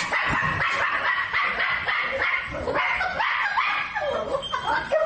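A dog yapping in a quick run of short, high-pitched barks, about three a second.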